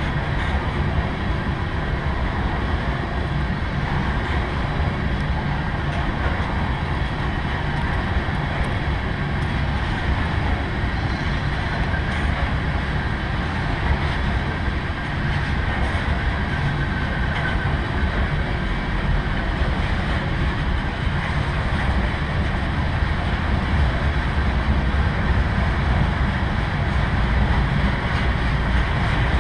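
Freight train of tank cars rolling steadily past on the rails: a continuous, even rumble of wheels and cars.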